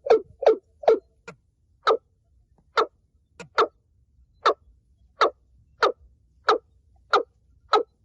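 Watercock calling: a series of short, hollow, repeated notes, quick at first and then slowing to about one every second.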